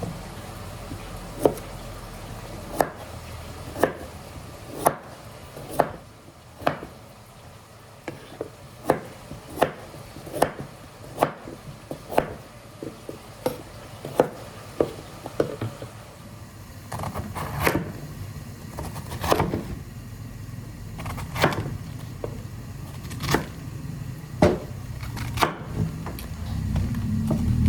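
Knife chopping on a wooden cutting board: sharp single knocks about once a second, coming faster in quick runs through the middle, then spacing out again.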